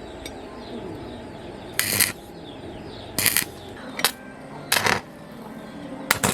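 Five short bursts of harsh hissing noise from tool work, each lasting a fraction of a second; the last two come close together near the end.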